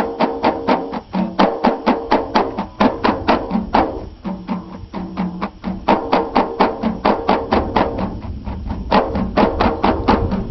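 Ahidous folk music: a chorus chanting in unison on long held notes over fast, steady percussion strikes, about five a second, in the style of the genre's handclaps and frame drums.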